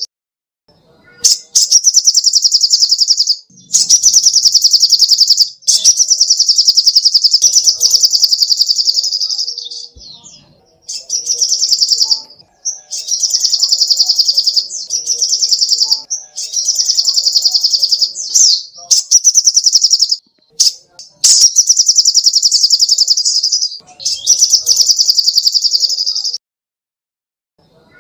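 Sogok ontong (little spiderhunter) singing long runs of very rapid, high-pitched chips. There are about nine runs, each one to four seconds long, broken by short pauses.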